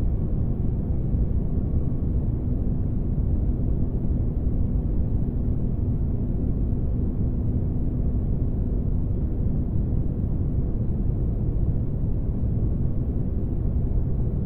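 Steady deep rumbling drone of a synthetic spaceship-engine ambience, with a faint constant hum over a dark, low noise bed.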